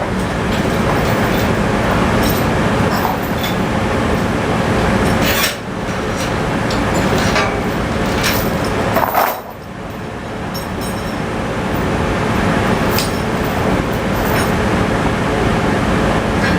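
Tractor engine running steadily, with scattered sharp metallic clinks and two brief dips in loudness.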